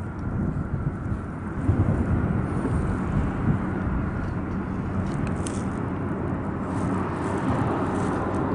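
Steady low rumble of traffic on the bridge overhead, mixed with wind on the microphone, with a few faint light ticks about five seconds in.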